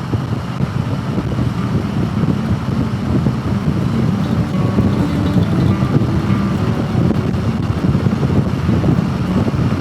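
Motorcycle engine running steadily, with wind buffeting the microphone.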